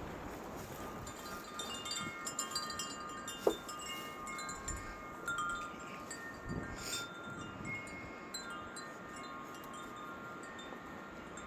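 Wind chimes ringing irregularly in gusty wind, clear metallic tones struck at random. A short sharp sound stands out about three and a half seconds in.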